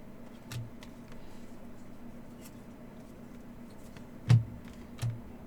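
Trading cards being handled and set down on a table: scattered soft clicks and taps, with one sharper tap and thud about four seconds in, over a low steady hum.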